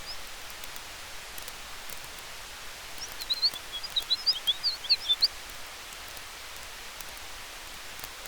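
Campfire burning with a steady hiss and faint scattered crackles. About three seconds in, a bird breaks in with a quick flurry of high chirps lasting a couple of seconds, the loudest sound here.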